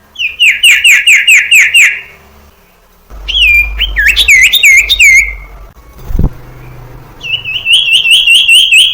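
Common iora (sirtu, cipoh) singing in three bursts of rapidly repeated whistled notes: a quick run of about eight notes, then slower swooping notes, then another fast run near the end. There is a short thump between the second and third bursts.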